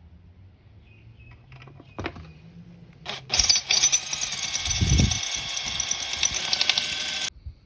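Electric drill drilling out a pop rivet on a motorcycle muffler's end cap: it starts about three seconds in, runs steadily for about four seconds with a low thud midway, then cuts off suddenly.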